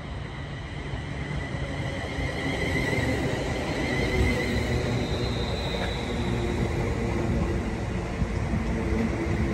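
Electric multiple unit pulling into the platform: the rumble of its wheels on the rails grows steadily louder as the coaches draw alongside, with a high steady whine over it.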